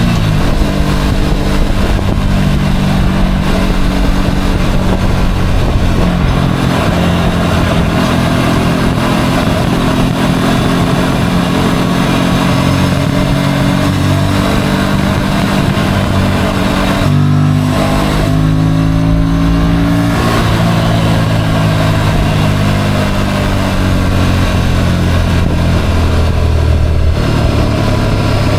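Motorcycle engine running under way, its pitch rising and falling with the throttle and briefly dropping out and picking up again about two-thirds of the way through, over a steady rushing noise.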